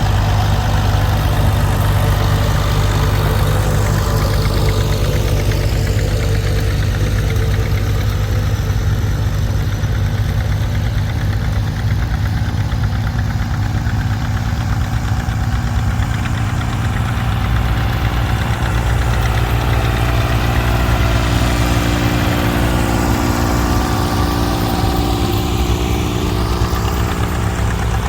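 Farm tractor engine running steadily and loud, a low even drone with no break.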